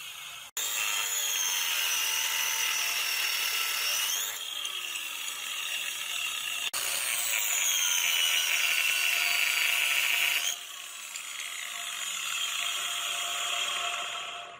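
Restored metal-cutting machine running: a steady mechanical whir with a high whine that falls in pitch twice, broken by abrupt cuts about half a second in and again near seven seconds, and dropping in level around four and ten and a half seconds.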